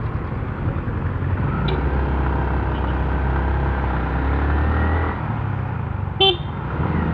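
Motorcycle engine running under way, its pitch rising as it accelerates and then easing off about five seconds in. A short vehicle horn toot sounds about six seconds in.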